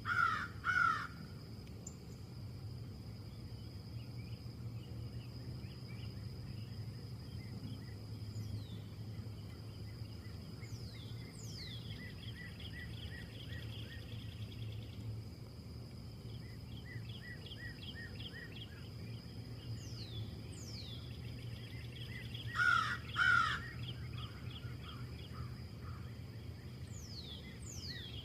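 Harsh cawing bird calls, two right at the start and two more about 22 seconds in, over smaller birds chirping, trilling and giving short falling whistles. A steady high whine and a low rumble run underneath.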